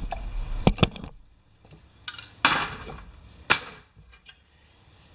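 Hard objects knocking: about five sharp clacks spread over a few seconds, the loudest about two and a half and three and a half seconds in.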